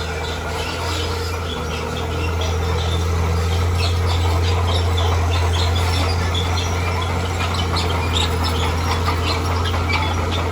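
Heavy earthmoving machine's diesel engine running with a steady low drone, a little louder from about two seconds in, with many birds chirping over it.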